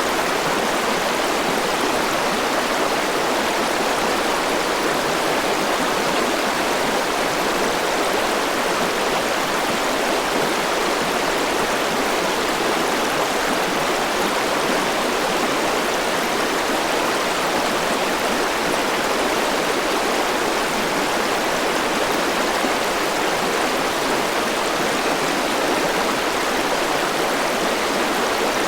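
Forest river flowing steadily over rocks, a constant rushing of water.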